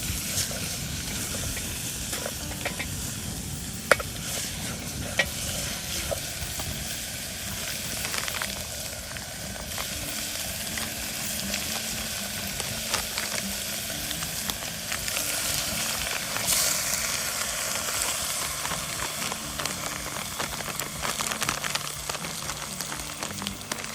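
Steady crackle and hiss of a wood fire burning, with sharp pops about four and five seconds in.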